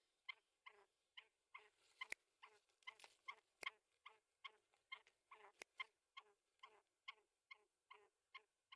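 Black francolin giving rapid, evenly repeated short calls, about three a second, agitated as it fights a hand. A few sharp clicks break in, around the second and fourth seconds and again near the sixth.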